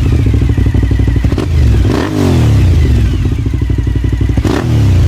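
Cagiva Raptor 1000's V-twin with an aftermarket Venom exhaust, running loud and rising in revs about two seconds in and again near the end, then dropping back.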